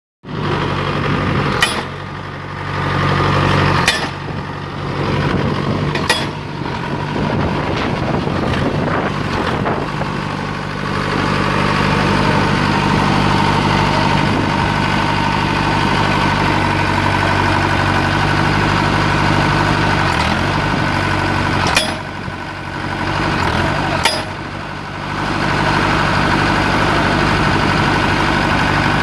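Small pile driver's engine running steadily, easing off briefly a few times, with a handful of sharp metallic clicks or knocks.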